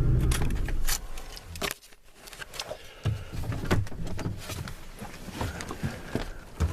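Pickup truck engine running at a low rumble, falling away suddenly about two seconds in. Scattered clicks and knocks follow, like a door and keys being handled.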